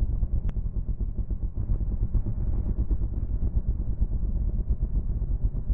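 Dirt bike engine running with a rough, steady low rumble.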